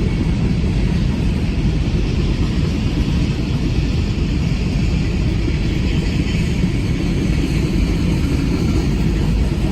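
Freight train cars rolling past, a loud steady rumble of wheels on rail.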